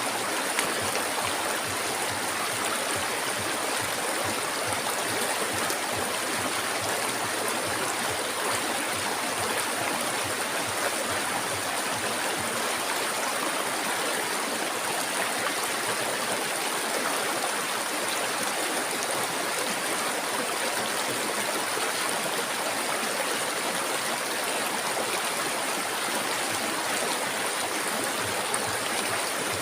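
Flowing river water: a steady, unbroken rushing and babbling with no let-up.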